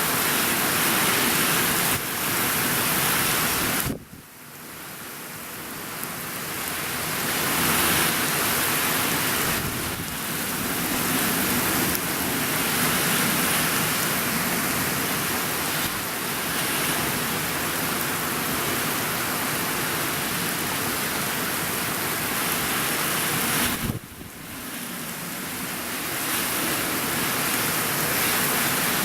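Typhoon rain and wind making a loud, steady noise. It drops off suddenly twice, about four seconds in and again near the end, and builds back up over a few seconds each time.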